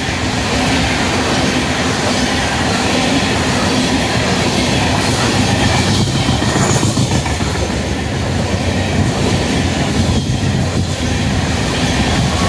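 Loaded coal train's open-top coal cars rolling past, a loud, steady din of steel wheels on the rails.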